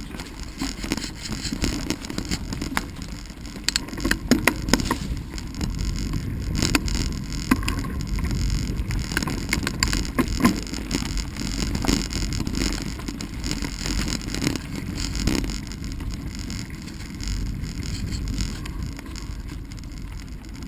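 Bicycle riding over a dirt trail: a steady rumble of tyres on the ground with frequent rattles and clicks as the bike goes over bumps.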